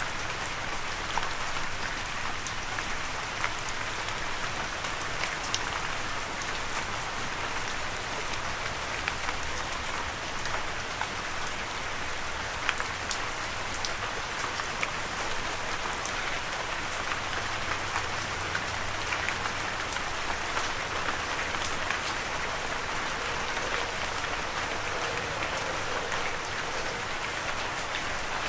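Steady rain falling, an even hiss with scattered sharp drops striking a surface.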